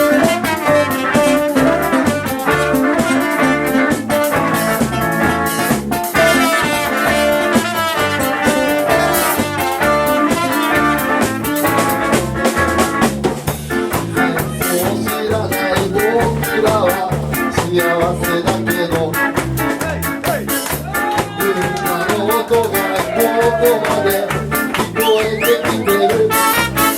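A live band playing an upbeat tune with a steady drum beat and melody instruments.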